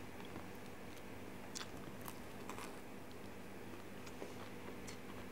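Faint chewing with a few soft crunches as a man eats a crisp fried spring roll, over a low steady hum.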